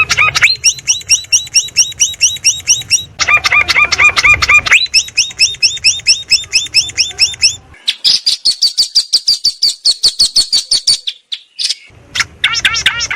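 Birdsong training track (masteran) of songs for a long-tailed shrike to copy: rapid strings of repeated chirps, about six or seven a second. The pattern switches abruptly to a different chirp series several times, with a brief gap near the end.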